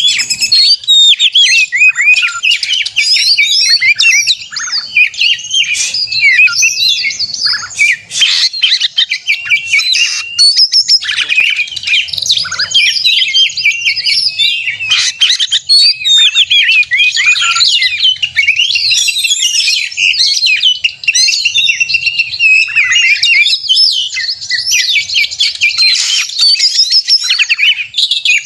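Oriental magpie-robin (kacer) singing loudly without pause, a rapid, unbroken stream of varied chirps and whistles. This is the excited 'gacor narung' fighting song that is used as a lure to provoke other males.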